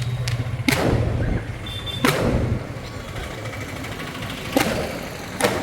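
Four sharp bangs, spaced irregularly, over street noise, with a low steady hum that fades out about halfway through.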